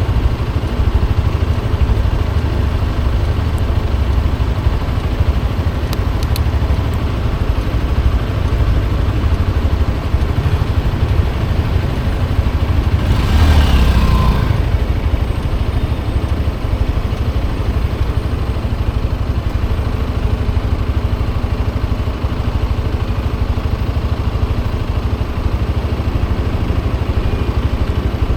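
Motorcycle running along a city street, a steady engine and road rumble with wind noise. Midway through, a louder swell sweeps past for a couple of seconds, like a vehicle passing close by.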